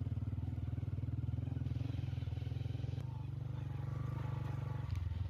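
A vehicle engine running steadily, a low rapid pulsing rumble.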